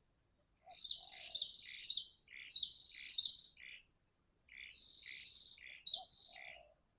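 Spotted dove (tekukur) calls used as a lure sound, in two bouts a little under a second apart. Low cooing notes sit under higher, sharper chirping.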